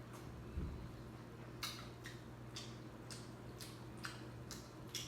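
Close-miked chewing of food, with short sharp mouth clicks about twice a second, over a steady low hum.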